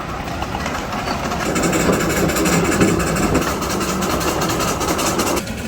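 Crown Metal Products miniature park train running, a steady engine and rolling noise that swells a little in the middle, with a sudden change just before the end.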